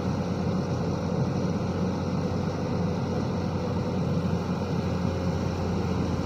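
Heavy construction-machine diesel engine running steadily with an even, low rumble.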